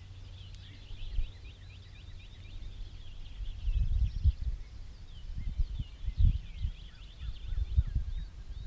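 Birds chirping: a steady stream of short, quick high chirps. From about three and a half seconds in, low rumbling bumps come and go underneath.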